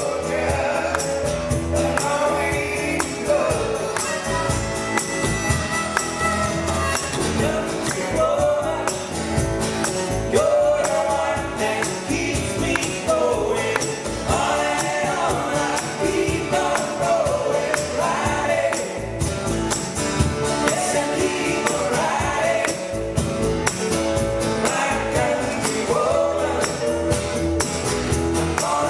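Live pop band playing a song, with a tambourine shaking over a steady beat and a melody line on top.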